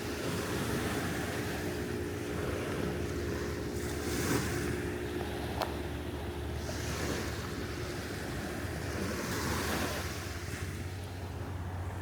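Surf washing onto a sandy beach, swelling and easing as waves come in, with wind buffeting the microphone. A steady low hum sits underneath, and there is a single sharp click about five and a half seconds in.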